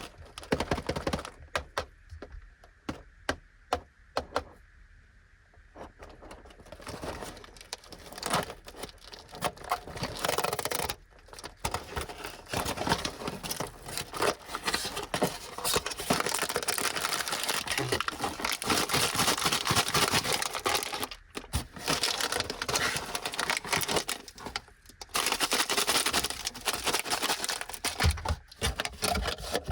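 Plastic biscuit packaging being handled and opened: a string of light clicks and taps at first, then crinkling and rustling of the wrapper, with a few brief pauses.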